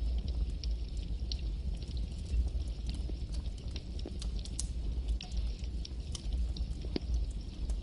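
Campfire burning: a steady low rumble of flames with irregular sharp crackles and pops from the wood, several a second.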